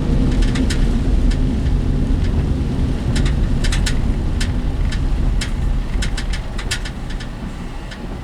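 Inside the cabin of a moving work vehicle: steady low road and engine rumble with frequent sharp clicks and rattles, the rumble easing off near the end.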